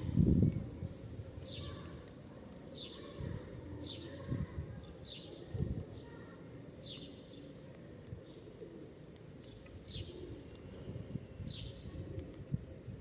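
Birds at a feeding spot: a bird repeats a short, high chirp that falls in pitch about every second or two, over low taps and knocks, with a louder thump at the very start.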